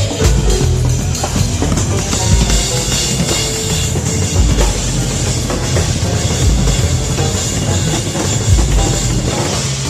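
Jazz band playing with the drum kit up front: snare and cymbals over a bass drum that lands about every two seconds.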